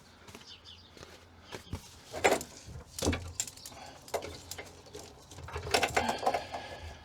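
Handling noises from fitting sound-deadening strips in a bare car interior: a few separate knocks and clicks, then a longer rustling stretch about six seconds in.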